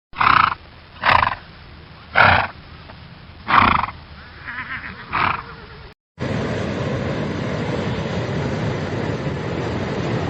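An animal gives a series of short calls, about one a second. About six seconds in, this cuts to a steady, loud rushing noise.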